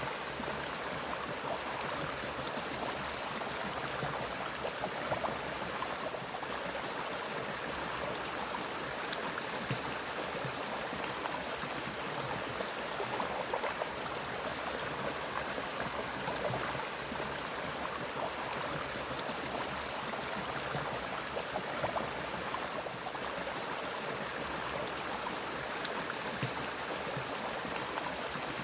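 Mountain stream flowing steadily through forest, a continuous even rush of water. A thin steady high-pitched tone sits above it throughout.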